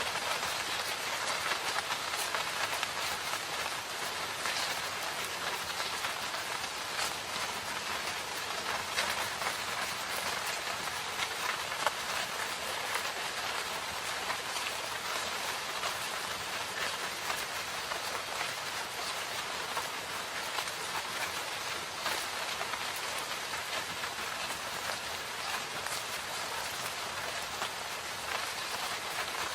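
Steady rain falling in a forest, a continuous hiss with many individual drops pattering on surfaces.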